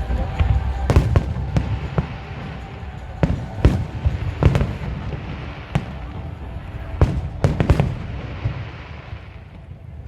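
Aerial fireworks display exploding: repeated sharp bangs over a heavy low rumble, coming in clusters about a second in, around the middle and again near the end, then thinning out.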